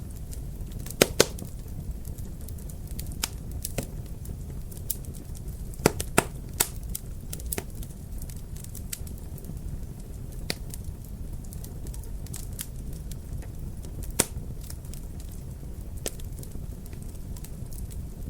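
Wood fire crackling in a fireplace: irregular sharp pops and snaps over a steady low rumble. The loudest pops come about a second in, around six seconds in, and once more near fourteen seconds.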